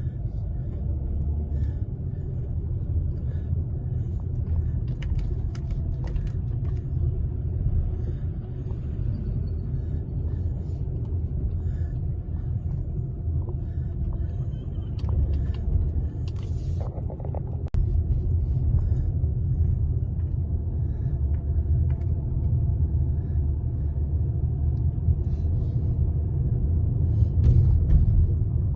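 Steady low rumble of a vehicle under way, with a few faint clicks and a brief dip about two-thirds of the way through.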